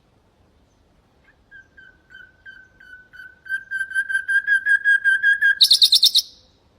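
Nightingale singing one phrase: a run of repeated whistled notes that grows louder and quicker, ending in a short, fast, high trill.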